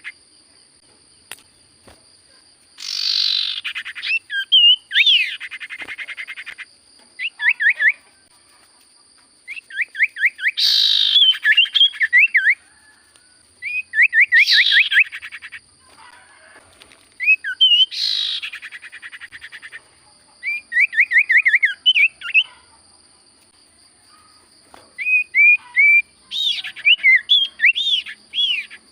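Common iora (cipoh) singing: about eight phrases of quick, repeated whistled notes, each phrase one to three seconds long, with short pauses between them.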